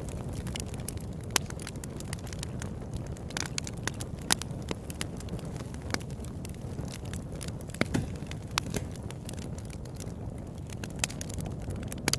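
Wood campfire burning: a steady low rush of flame with irregular sharp crackles and pops, a few of them louder than the rest.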